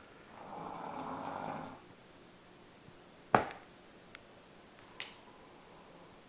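A doodle dog snoring: one drawn-out snore of about a second and a half. A sharp click follows a little over three seconds in, louder than the snore, and a fainter click comes about five seconds in.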